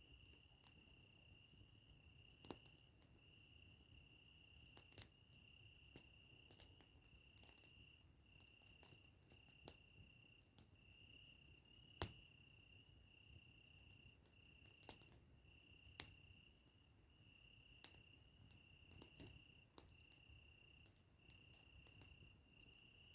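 Faint campfire crackle: irregular sharp pops and clicks of burning wood, the loudest about halfway through and again a few seconds later. Behind it a night insect, likely a cricket, trills steadily in pulses about a second long.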